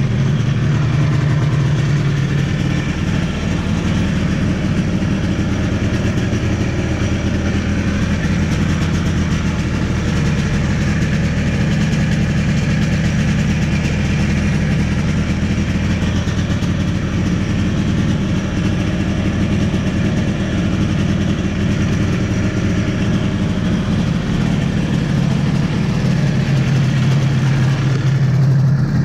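1982 Yamaha Bravo snowmobile's single-cylinder two-stroke engine idling steadily while it warms up on a cold start.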